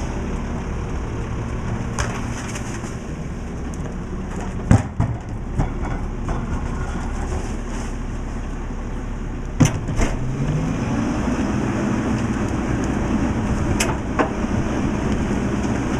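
Mack LE garbage truck's diesel engine running steadily, rising in pitch briefly after about ten seconds, with several sharp metal knocks and bangs.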